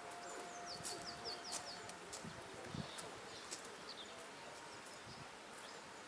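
Birdsong: short high chirps, with a quick run of falling notes about a second in, over a faint even outdoor background. A faint steady tone fades out about a second and a half in.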